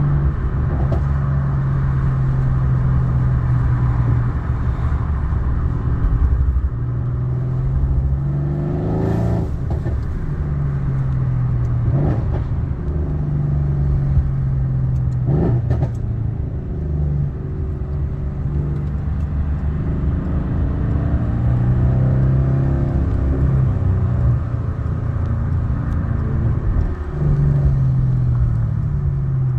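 Mercedes-AMG C63 S engine running, a steady drone that steps up and down in pitch, with brief sharp revs about 9, 12 and 15 seconds in.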